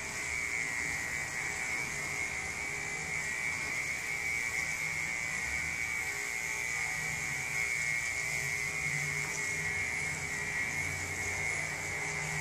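Electric pet grooming clippers running steadily as they shave the long coat of a Himalayan cat, with a constant high whine over a low hum that shifts slightly as the blade works through the fur.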